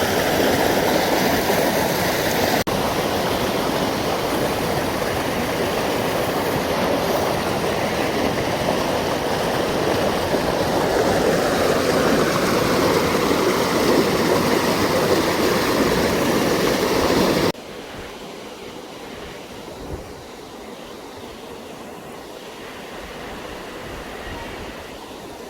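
Rushing water of a mountain river, a loud steady wash. A little over two-thirds of the way through it cuts off suddenly to a much fainter, steady rush.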